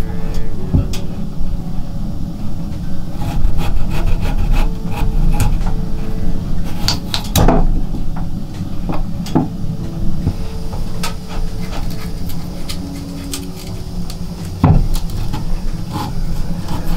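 Wood being handled: scattered knocks and clicks with rubbing and scraping, a few of the knocks sharper and louder, over a steady low rumble.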